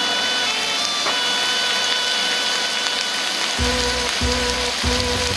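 Sliced bamboo shoots sizzling in oil in a wok, a steady hiss, under background music of held notes; a low pulsing beat joins the music about three and a half seconds in.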